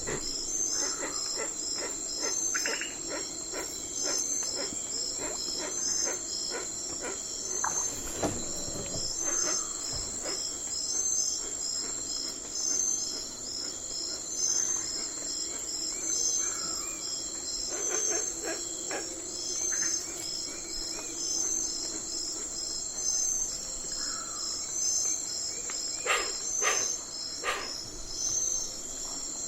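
Night forest ambience of insects: a steady high-pitched trill, with a second insect chirping in even pulses about once a second. Three sharp clicks come near the end.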